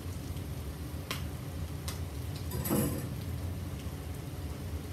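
Frozen mixed vegetables sizzling in a hot wok, with a few light clicks and a louder clatter of a utensil or bowl against the wok a little under three seconds in, over a steady low hum.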